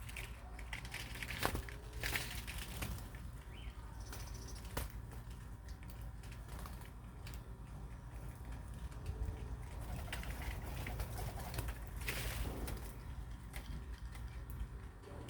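Birds making low coos now and then, with a few brief flutters or rustles and light scratching clicks, over a steady low hum.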